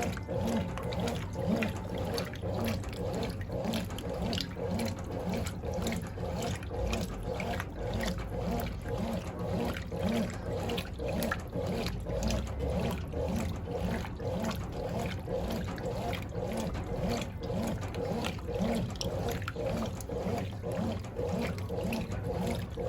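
Brastemp Clean 10 kg top-loading washing machine agitating a full, heavy load: water and clothes sloshing back and forth in a steady rhythm, the machine straining under the load but keeping going.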